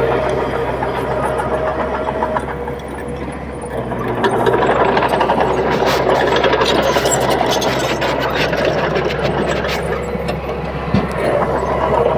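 Crawler bulldozer's diesel engine running steadily under work, with rattling clanks. The engine eases a little about three seconds in and picks up again about a second later.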